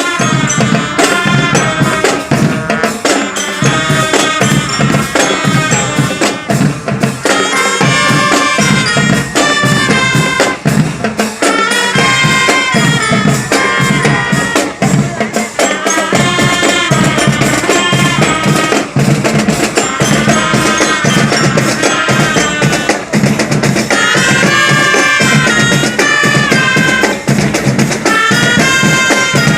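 Marching band playing: drums beat a steady, dense rhythm under a melody carried by the band's pitched instruments.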